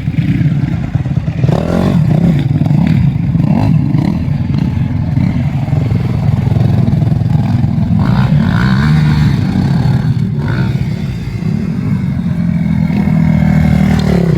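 Motocross dirt bike engines racing past, revving up and down continuously with shifting pitch.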